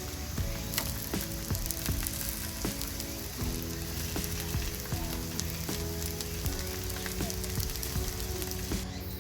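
Food sizzling as it cooks, with a steady hiss and scattered small pops and spits. Background music with held notes that change about twice a second plays over it.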